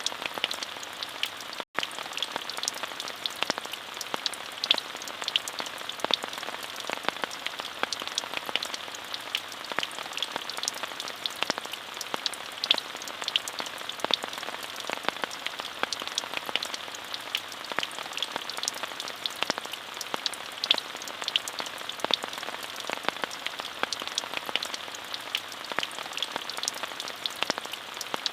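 Steady rain falling: an even hiss dotted with many sharp, close drop taps. It cuts out for an instant about two seconds in.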